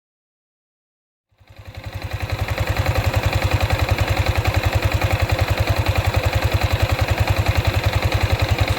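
Yamaha Sniper 155 VVA's single-cylinder 155 cc engine idling on its stock exhaust, with a fast, even pulsing. This idle pulse is the model's known 'helicopter' sound, heard only off the throttle. It starts about a second and a half in and swells up over the next second.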